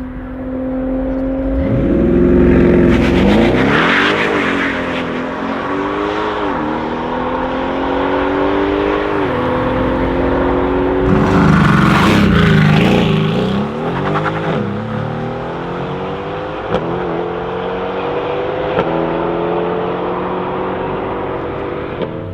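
Audi RS6 C7 Performance's twin-turbo V8 with an Akrapovic exhaust accelerating hard through the gears, its pitch climbing and then dropping back at each upshift. The loudest pulls come a couple of seconds in and again around the middle.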